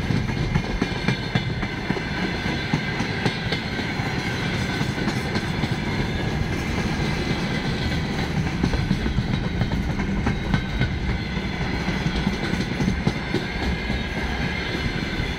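Freight train wagons (boxcars, tank cars and covered hoppers) rolling past on the track, a steady rumble of steel wheels on rail with the repeated clickety-clack of wheelsets over rail joints.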